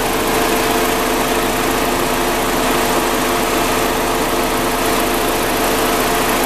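Volkswagen 1.8-litre turbocharged four-cylinder engine idling steadily, heard close up with the hood open.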